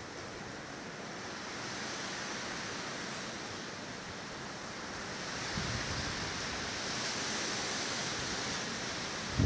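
Strong gusting Fuden-oroshi downslope wind rushing through the trees, swelling and easing, with a low thump about five and a half seconds in.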